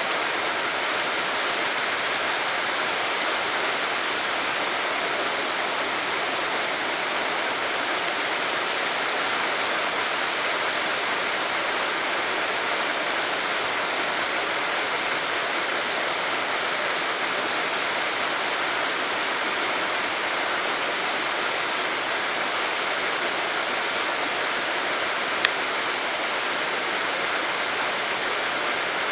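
Waterfall rushing steadily, with one sharp click near the end.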